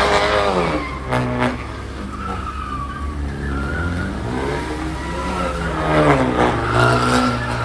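A car drifting on wet pavement: its engine revs up and falls back in long swells, twice, while the tyres skid and squeal.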